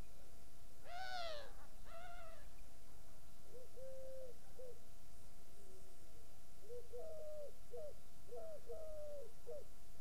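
Birds calling: a harsh, rising-then-falling call rich in overtones about a second in, a shorter one a second later, then three groups of short, low-pitched notes repeated in phrases.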